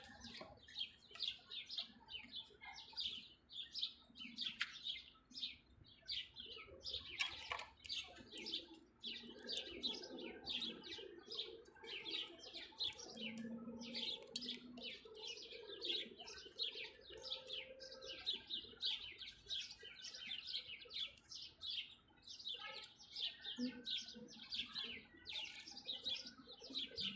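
Small birds chirping continuously, a quick run of short, high chirps several times a second, with a faint low hum for several seconds in the middle.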